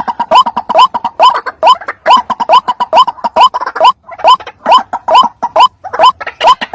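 White-breasted waterhen calling, a rapid string of loud, upward-hooked croaking notes, about two and a half a second, repeated without a break: the ruak-ruak call used as a lure for the species.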